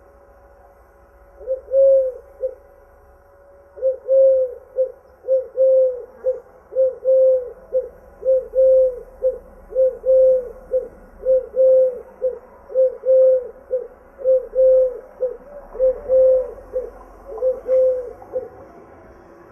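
A bird calling a long run of low, evenly repeated notes that come mostly in quick pairs. It starts about a second and a half in and stops just before the end.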